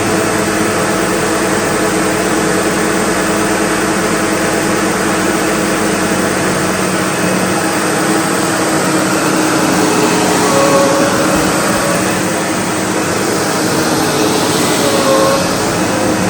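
SEBO Automatic X4 bagged upright vacuum cleaner running steadily, with a short higher tone rising out of the motor noise twice, near the middle and near the end.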